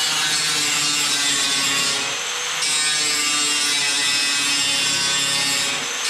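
Electric grinder running under load against sheet metal, a steady whine with a rasping grind that lets up briefly about two seconds in before bearing down again.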